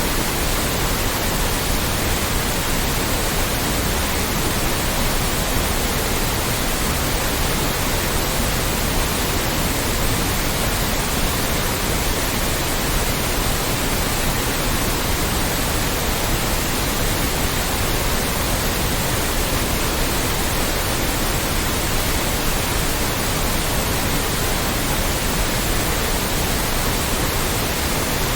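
Loud, steady white noise: an even, unchanging hiss spread across all pitches, from the lowest to the highest.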